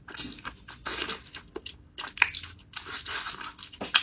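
Close, wet chewing and mouth smacking on lean meat from a braised pork knuckle, with sticky clicks and squelches as gloved fingers pull the sauce-coated meat apart. Irregular short clicks come several times a second, a sharper one a little past two seconds in and another near the end.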